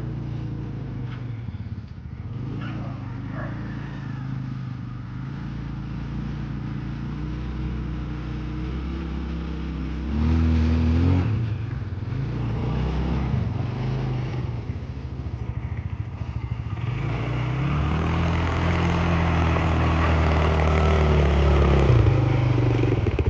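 A motor vehicle's engine running with changing revs. It gets louder briefly about ten seconds in, then builds again and runs higher for several seconds near the end.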